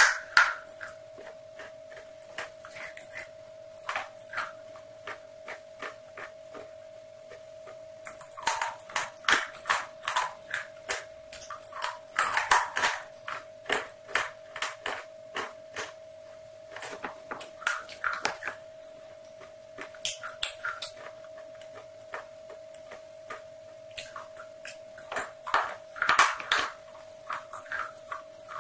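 Close-miked eating sounds: crisp crunching and mouth clicks held right against a lavalier microphone, coming in bursts with short pauses and busiest about a third of the way in and again near the end. A steady hum runs underneath.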